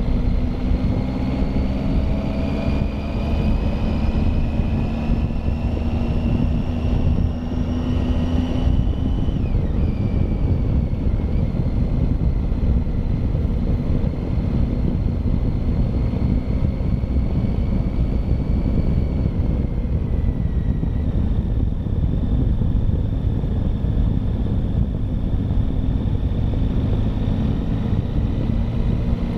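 Triumph Tiger motorcycle engine pulling up a climb. Its pitch rises for about nine seconds, drops suddenly at a gear change, then holds steady, with wind rushing on the microphone throughout.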